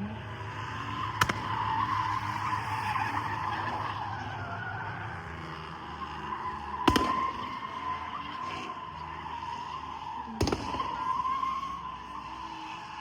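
A car doing a burnout: tyres squealing steadily with a wavering pitch over the running engine. Three sharp bangs cut through, about a second in, near the middle and a few seconds before the end.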